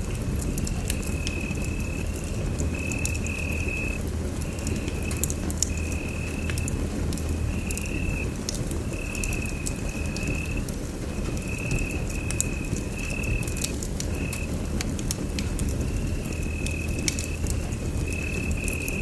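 Wood fire in a fireplace crackling, with frequent sharp pops over a steady low rumble. A high thin tone keeps breaking off and coming back about once a second.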